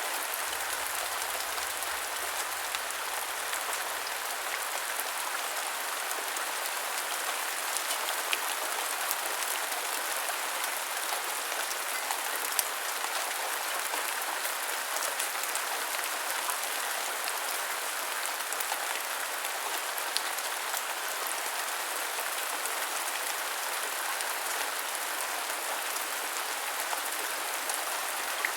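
Steady heavy rain falling, a continuous hiss with scattered sharp drop ticks.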